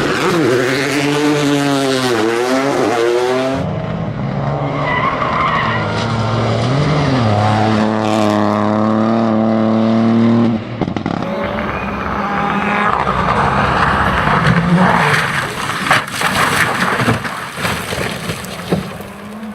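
Rally car engines at full throttle, the pitch bending down as a car passes about two seconds in, then a steady held engine note. From about halfway, loose tyre skidding noise mixed with bursts of engine.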